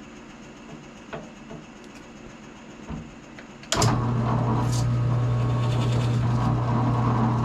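A few light knocks, then an electric drill press motor switches on suddenly about halfway through and runs with a steady hum while a Forstner bit bores a switch pocket in the guitar body.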